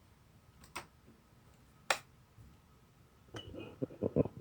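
Three sharp, separate clicks in the first two seconds, then a quick cluster of knocks and rattles near the end.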